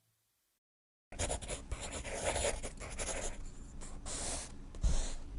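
A drawing tool scratching back and forth on paper in repeated strokes, starting about a second in, with a soft thump near the end.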